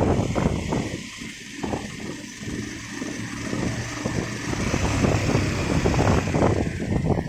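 Motorcycle riding along, its engine noise mixed with gusty wind buffeting the microphone. The sound drops back about a second in and builds again over the last few seconds.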